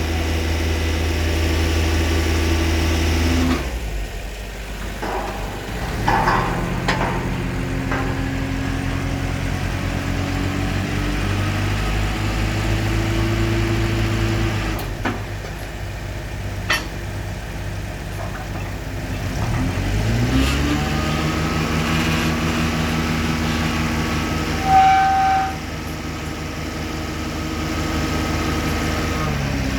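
Engine of a concrete pile-pressing rig running steadily. Its pitch drops a few seconds in and rises again about two-thirds through, as the load changes. A few sharp clanks, and a short high tone about three-quarters through.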